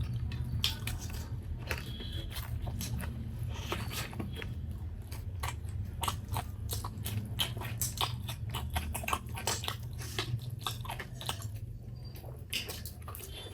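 A person chewing and eating momo dumplings close to the microphone: many small, irregular wet mouth clicks and smacks, over a steady low hum.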